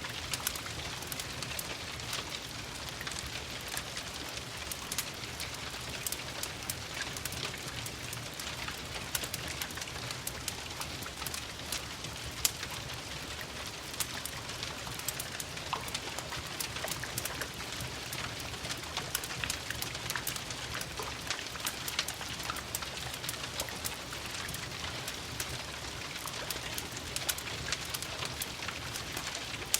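Steady rain with a fireplace crackling: an even hiss under many small sharp pops, with one louder pop about twelve seconds in.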